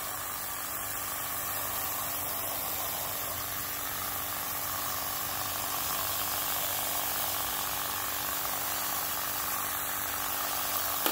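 Propane water heater burning with its 12-volt water pump running: a steady hiss of flame and flowing water over a low, even pump hum, as the water heats up.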